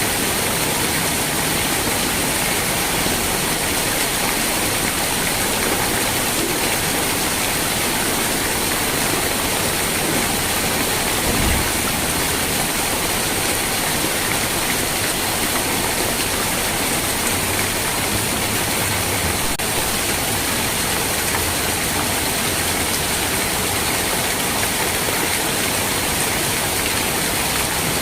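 Steady rain falling, an even hiss with no let-up. A brief low thump comes a little over a third of the way in.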